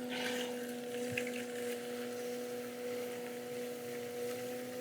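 Electric potter's wheel motor humming steadily as it spins, with soft wet rubbing of hands on waterlogged stoneware clay and a brief scrape near the start.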